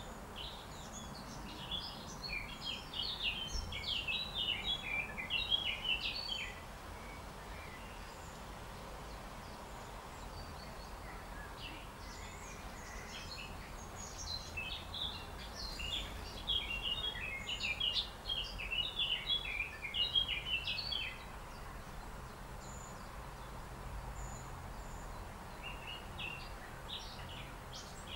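A songbird singing in long bouts of rapid, jumbled chirping notes: one bout about two seconds in lasting some five seconds, another from about fourteen to twenty-one seconds, and a third starting near the end. Steady low background noise runs underneath.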